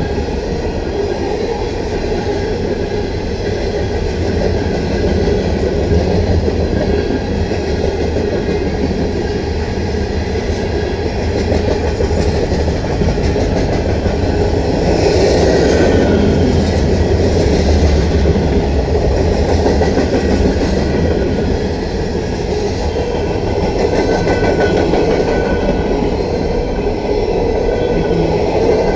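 Freight cars of a CSX manifest train rolling past at speed: a steady, continuous noise of steel wheels on rail, swelling slightly about halfway through.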